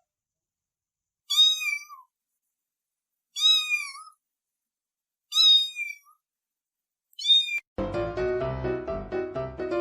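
A kitten meowing four times, each a short high cry about two seconds apart. Piano music comes in near the end.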